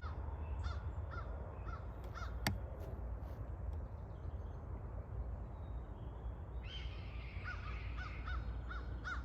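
Crows cawing in short repeated calls, a few in the first couple of seconds and then a quicker run near the end: crows mobbing birds of prey to drive them off their territory. A steady low rumble lies underneath, with a single sharp click.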